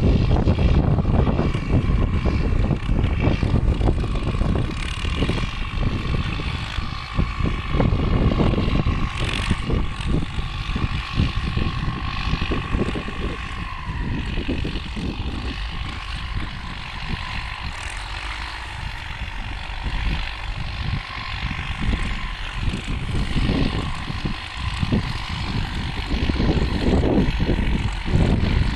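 Ford farm tractor engine running steadily under load while pulling a disc plow, with a high whine that drops in pitch about halfway through.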